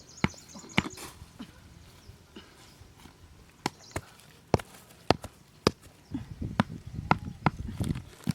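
A series of sharp knocks, several about half a second apart, with a low rustling noise near the end.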